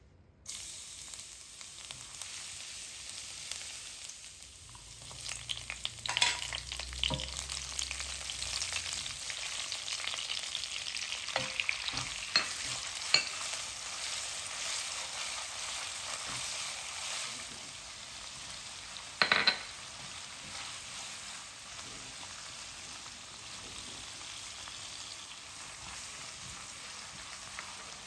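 Sliced beef and chicken with red chillies and garlic sizzling in hot oil in a nonstick wok, stirred with a wooden spatula. The sizzle starts suddenly as the food hits the oil and gets louder a few seconds later. Sharp knocks of the spatula against the pan come through it, the loudest about two-thirds of the way through.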